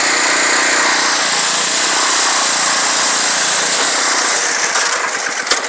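Toro X525 lawn tractor's engine running steadily at throttle, then dropping away near the end.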